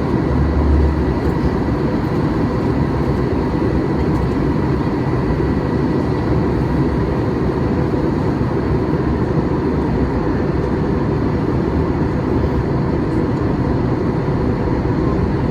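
Steady cabin noise inside a Boeing 737-800 in flight: a constant roar of its CFM56 turbofan engines and the airflow over the fuselage, with faint steady tones running through it.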